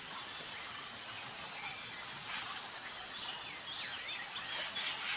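Natural ambience of insects trilling steadily at a high pitch, with a few short bird chirps about two and a half to three and a half seconds in.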